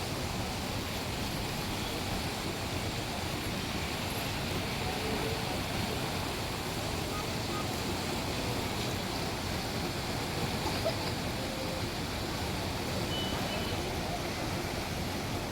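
The rain-swollen Ganga rushing past in a steady, unbroken wash of fast-flowing water.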